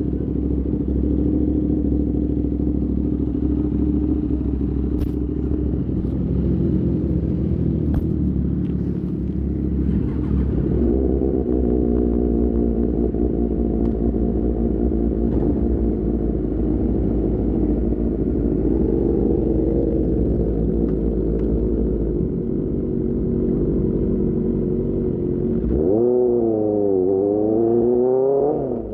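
Superbike engine through an Austin Racing GP1R exhaust, running steadily at low revs, its pitch stepping up about eleven seconds in. Near the end it revs up and down.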